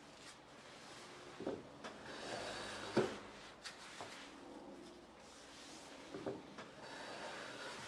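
Wooden Japanese hand plane being worked: rubbing, sliding strokes of wood on wood with a few sharp wooden knocks, the loudest about three seconds in.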